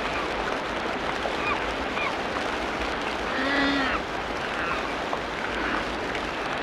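Tropical rainforest ambience: a steady dense hiss with scattered short bird-like chirps. About three and a half seconds in, one louder pitched animal call lasting under a second stands out.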